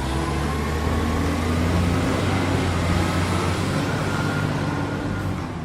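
Motor vehicle engine running steadily: a low, even hum with a wash of road noise over it.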